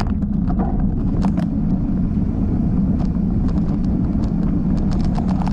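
Mountain bike rolling down a dirt singletrack trail: a steady rumble of tyres and rushing air, with frequent short clicks and rattles from the bike over bumps.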